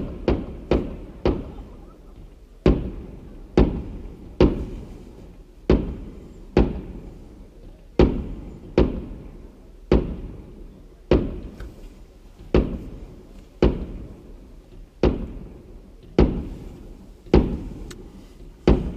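Aerial firework shells bursting one after another, a sharp bang about every second, each trailing off before the next.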